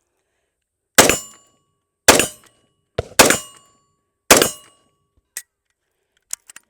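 Four shots from a Magnum Research Desert Eagle in .357 Magnum, fired about a second apart. Each shot is followed by the ring of a struck steel target. A few small metallic clicks come near the end.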